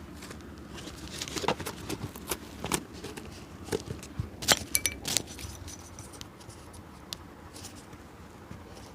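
Irregular clicks and short scrapes of hand tools working on an old leather shoe during a sole restoration. They come thick in the first half and thin out toward the end.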